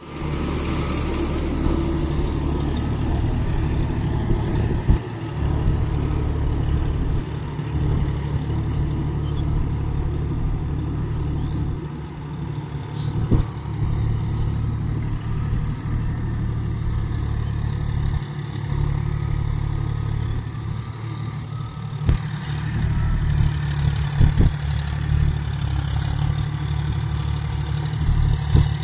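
John Deere 5050D tractor's three-cylinder diesel engine running steadily, with a few sharp knocks along the way.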